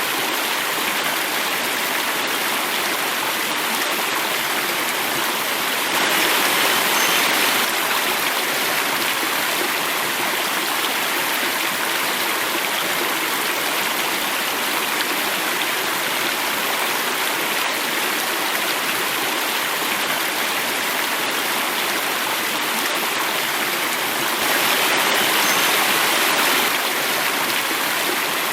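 Water running and falling over rocks in a stream or small cascade, a steady rush that swells briefly twice, about six seconds in and again near the end.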